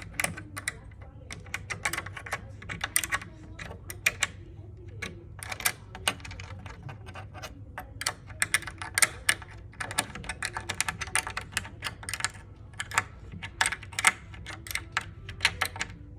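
Metal hex key clicking and clinking in a bolt head as it is turned over and over to tighten a bolt into its nut on a bed frame, in quick irregular clusters of small clicks.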